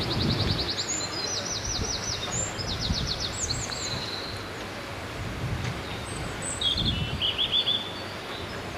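Small songbird singing short, rapid trilled phrases, about four of them with a gap in the middle, over steady outdoor background noise.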